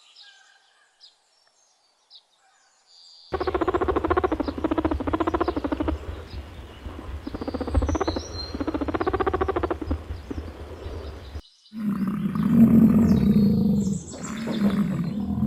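Animal calls from two clips: a loud pitched call repeated in phrases of about two seconds with bird chirps above it, then, after a sudden cut about three-quarters of the way in, a deeper call from a larger animal.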